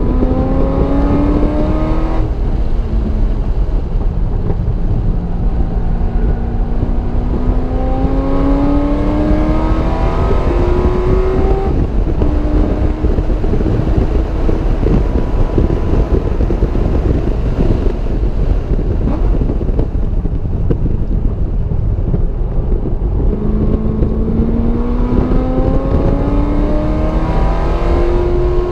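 Car engine lapping a race track: it climbs in pitch under hard acceleration, drops at an upshift about two seconds in and again about twelve seconds in, runs lower for a stretch, then climbs again near the end. Heavy wind and road noise run underneath.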